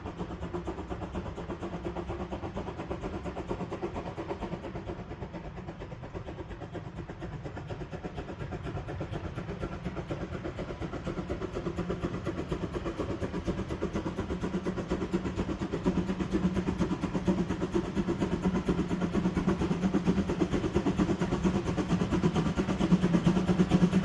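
Steam locomotive 99 1794-9, a DR narrow-gauge tank engine, working a train with a fast, even exhaust beat that grows steadily louder as it approaches.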